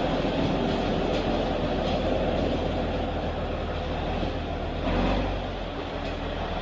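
John Deere 6030 tractor's six-cylinder diesel engine running steadily after start-up, with a brief swell about five seconds in and a slightly lower level after it.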